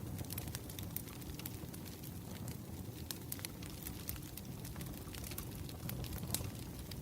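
Wood fire crackling: a steady low flame noise with irregular sharp pops and snaps from the burning logs.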